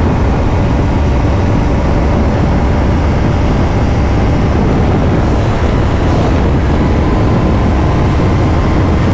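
Kawasaki Ninja 500 parallel-twin engine running at a steady cruise under a heavy, even rush of road and wind noise, with no revving up or down.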